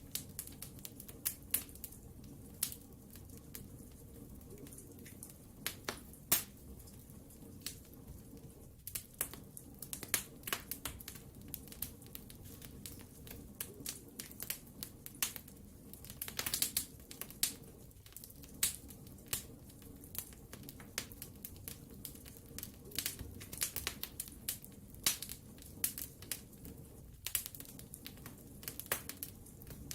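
Wood fire burning in a fireplace: irregular sharp crackles and pops, several a second and unevenly spaced, over a low steady rush of flames.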